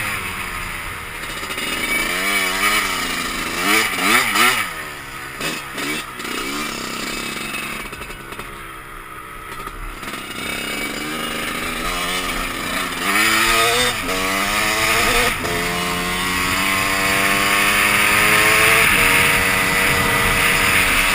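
Two-stroke dirt bike engine revving, its pitch rising and falling several times as it is ridden through the gears, then climbing long and steadily under acceleration near the end, with wind noise on the microphone.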